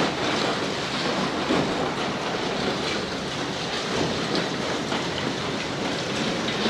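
Demolition machinery breaking up a concrete building, heard as a steady crunching, clattering noise of rubble.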